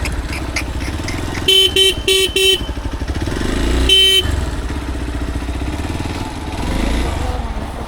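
Motorcycle horn beeping four quick times, then once more about two seconds later, over the steady running of the motorcycle engine.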